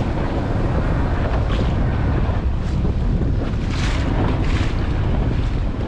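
Wind buffeting the microphone aboard a small motorboat, over a steady low rumble from the boat's motor, with a few brief gusts of brighter hiss.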